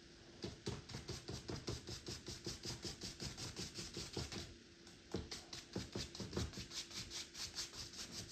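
Paintbrush scrubbing back and forth on canvas in quick, even strokes of about four to five a second, in two runs with a short break about four and a half seconds in.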